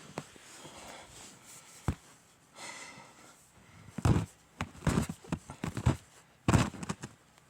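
Footsteps crunching through deep snow: quieter in the first few seconds, then a run of loud, irregular crunches from about four seconds in.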